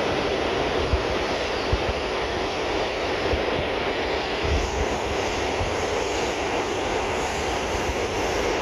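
Steady rumble heard inside an R142 subway car, with a few short low thumps, about a second in, near two seconds and around four and a half seconds.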